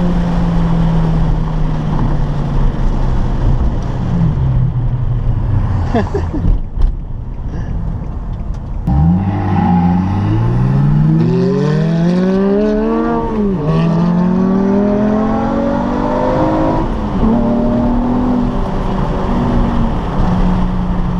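Sports car engine pulling hard: the engine note sinks slowly at first, then from about nine seconds in climbs steeply in pitch under acceleration. It dips sharply at a gear change, climbs again, then settles into a steady cruise.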